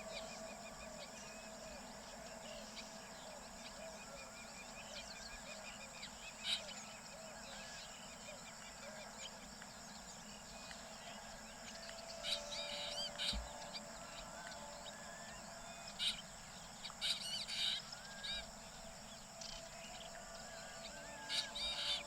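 Chorus of small birds chirping and calling, with a sharp louder call about six seconds in and repeated bursts of loud chirps in the second half, over a steady high-pitched hum.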